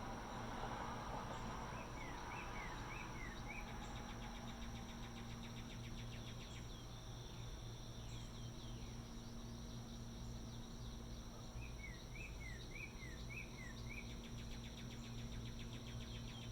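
Evening chorus of insects: a steady high drone with fast pulsing trills that swell a few seconds in and again near the end. Twice, a couple of seconds in and again about twelve seconds in, a bird gives a quick run of about five short falling chirps. A low steady mechanical hum runs underneath.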